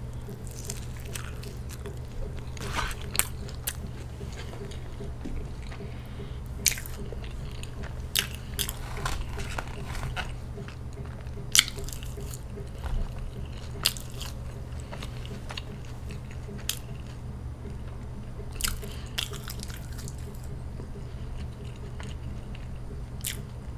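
Close-miked eating of a burger: bites and chewing, with sharp crunchy clicks scattered throughout and the loudest one about halfway through, over a steady low hum.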